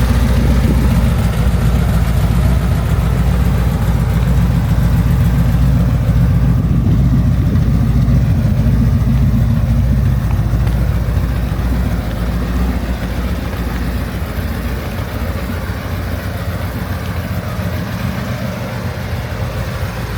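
1996 Chevrolet Camaro Z28 SS's 5.7-litre LT1 V8 running steadily, growing quieter over the last several seconds.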